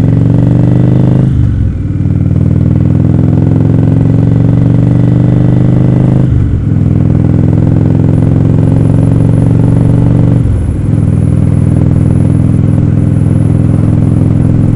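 Indian Roadmaster's V-twin engine accelerating up through the gears. The engine note climbs steadily and breaks off briefly at three upshifts, about a second and a half, six and a half and ten and a half seconds in, over a steady rush of wind.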